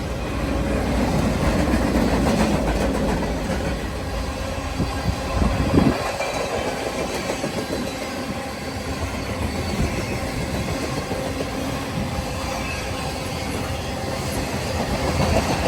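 Freight train cars rolling past on the rails with a steady rumble, and a single louder knock about six seconds in.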